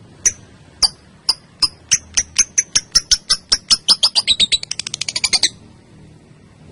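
Female lovebird giving its long 'ngekek' call: a run of sharp, high chirps that starts at about two a second and speeds up into a fast chatter, then stops abruptly about five and a half seconds in.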